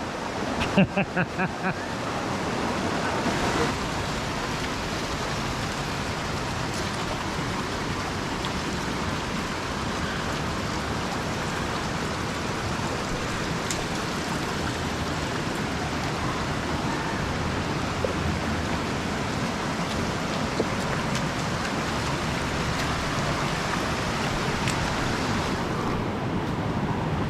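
Steady rush of a rocky stream flowing.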